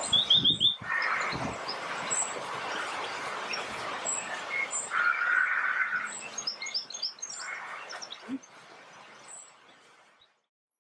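Small birds chirping, a few quick high chirps and twitters over a steady outdoor background hiss, which fades out near the end.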